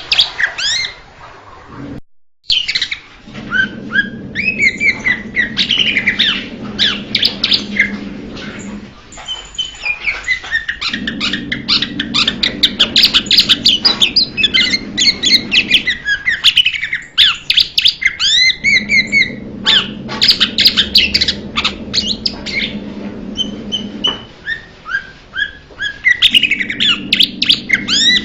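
Blue-winged leafbird singing: phrases of rapid, varied chirps and sweeping whistles, separated by pauses of one to two seconds, with a low hum beneath the song.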